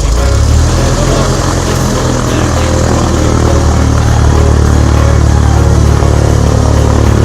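A vehicle engine sound effect running steadily as a deep low rumble, over faint background music.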